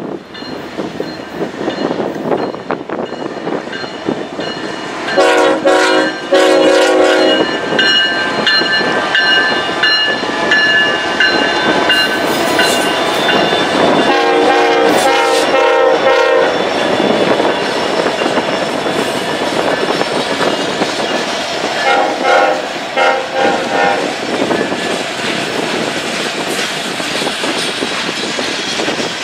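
Norfolk Southern freight train led by two GE locomotives passing and sounding its multi-note air horn in a hornshow: two blasts about five seconds in, a louder broken series midway, and fainter short toots later. Underneath, the loaded coal hopper cars run by with a steady rumble and clickety-clack over the rail joints.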